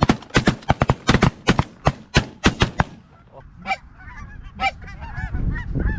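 A rapid volley of a dozen or more shotgun shots from several hunters firing together over about three seconds, then geese honking.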